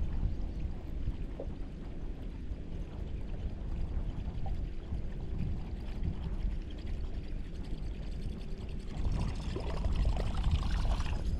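Wind rumbling on the microphone, with water sloshing and gurgling against the boat's hull. The water sound grows louder about nine seconds in.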